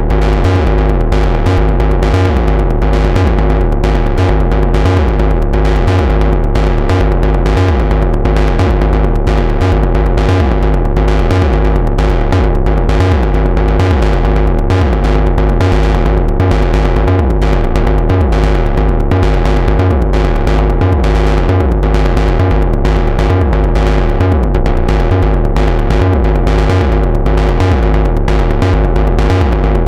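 Moog Subharmonicon analog synthesizer playing a fast percussive sequenced patch. Rapid, evenly spaced deep hits pulse under a chord of steady held tones.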